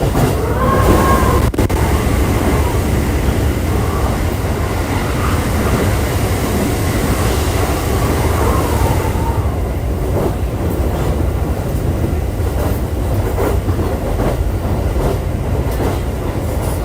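Cabin running sound of a JR East E531 series electric multiple unit under way: a steady low rumble of wheels on rail, with a wavering whine in the first half and rail-joint knocks in the second half.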